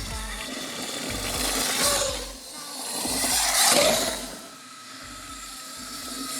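Electric dirt bikes riding by, a rush of motor and tyre noise that swells twice, about two seconds in and again near four seconds.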